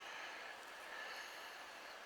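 Faint steady hiss.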